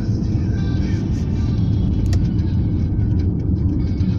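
Steady low rumble of a car driving, heard from inside the cabin, with car-radio music playing faintly under it.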